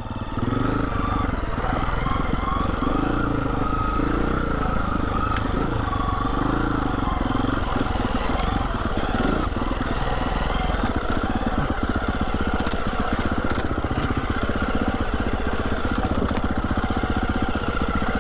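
Husqvarna 350 FE's single-cylinder four-stroke engine running as the dirt bike is ridden down a trail, its pitch rising and falling with the throttle over the first half, then steadier.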